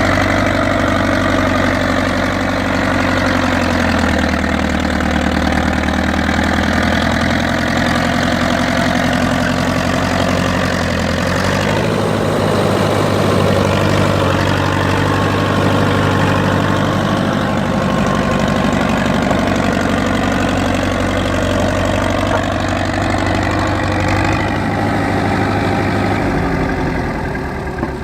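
1956 International TD6 crawler dozer's gas-start diesel engine running steadily. Its pitch shifts about 4 seconds in and again near 12 seconds.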